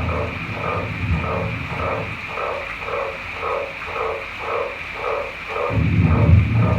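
Thunderstorm soundscape with frogs croaking in a steady rhythm, about three croaks a second, over a steady high hiss. A low thunder rumble dies away after the first couple of seconds and swells back in loudly near the end.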